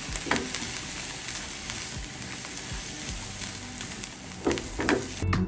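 Onion and garlic sizzling steadily as they fry in oil in a pan, with a few soft knocks near the start and twice near the end.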